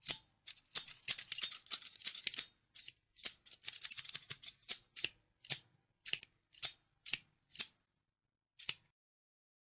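Scissors snipping: a quick run of close crisp snips, then single snips about half a second apart, and one last snip after a short pause near the end.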